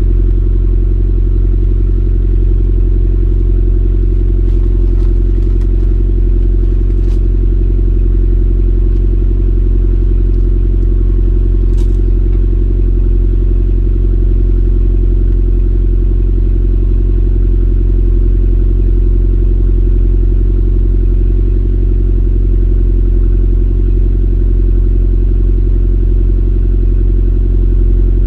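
Abarth 500's 1.4-litre turbo four-cylinder idling steadily on a cold start, heard through a Ferrita catback exhaust, with a loud, deep exhaust note that holds an even pitch.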